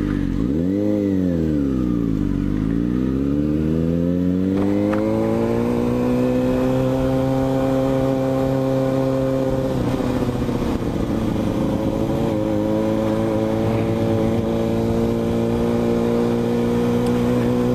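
Motorcycle engine under way: the revs drop and pick back up in the first few seconds, then climb and hold steady at cruising speed, with a brief small dip about ten seconds in.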